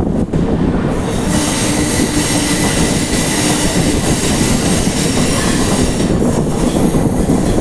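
Duronto Express train running at speed through a station without stopping, heard from on board: a steady rumble and rush of wheels on rails. A hiss of higher noise swells about a second in.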